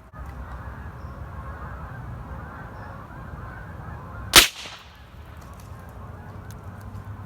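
.22 rifle firing a single sharp shot about four seconds in, at a target of bang snaps. A steady background noise runs underneath.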